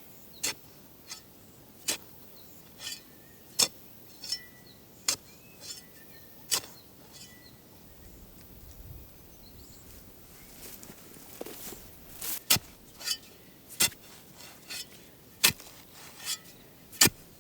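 A series of sharp, irregular clicks and taps, some louder than others. Faint bird chirps sound in the background.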